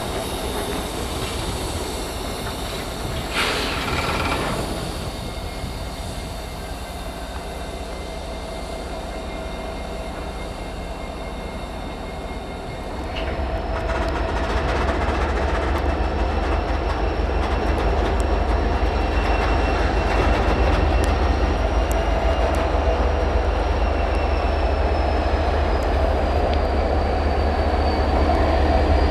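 Slow-moving freight train in a rail yard: steel wheels rolling with high squeal and a short squeal about three and a half seconds in. About thirteen seconds in, the diesel locomotive's engine rumble rises and stays louder as the train works its cars.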